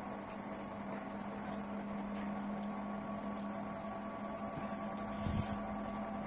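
A steady electrical hum with a few fixed tones runs under soft clicks and smacks of someone chewing and eating rice and chicken curry by hand, with one louder mouth or hand sound about five seconds in.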